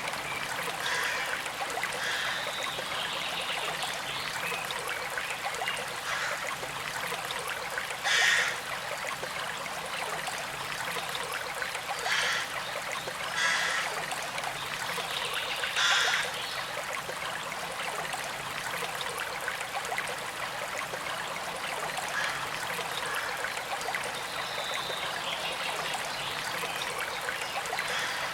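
A small creek flowing and trickling steadily, with a few brief louder gurgles or splashes in the middle.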